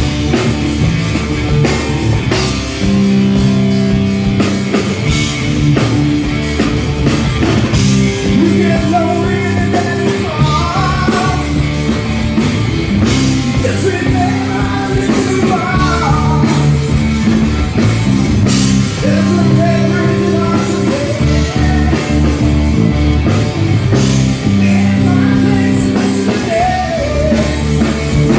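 Live rock band playing a hard-rock song, with a lead vocal coming in about eight seconds in and carrying on over the band.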